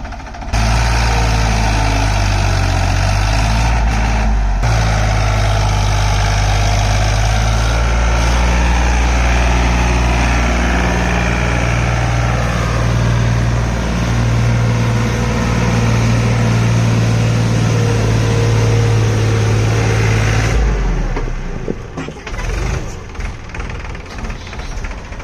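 Farmtrac tractor's diesel engine running loud and steady, then suddenly dropping to a much quieter, uneven running about twenty seconds in.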